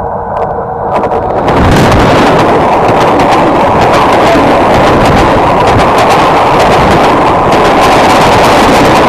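Indian Railways passenger train passing close at speed. The rising approach breaks into a loud rush of the locomotive and coaches going by about a second and a half in. Wheels clatter on the rails with rapid clicks, and wind buffets the microphone.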